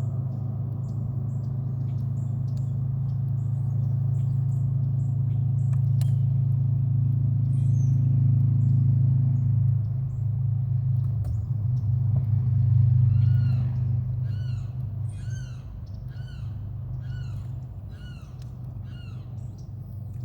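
A loud, steady low hum that swells and then fades after about 14 s. Over it, in the second half, a bird repeats a short arched call about a dozen times, nearly two a second.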